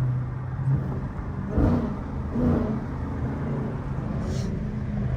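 V8 muscle car engine running at low revs with a steady deep rumble and two short louder swells, about one and a half and two and a half seconds in.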